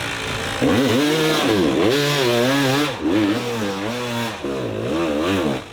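Off-road motorcycle engine revved up and down over and over in quick blips, its pitch rising and falling two or three times a second.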